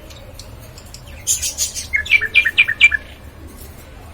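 Small pet parrots calling: a short, rough, high-pitched chatter about a second in, followed by a quick run of about six short chirps.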